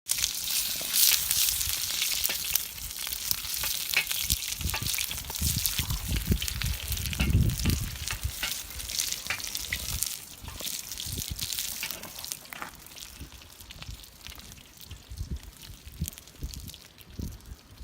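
Meat sizzling as it sears in a hot saç, a shallow iron pan, with scattered crackles and pops; the sizzle grows fainter in the second half. A low rumble comes in about seven seconds in.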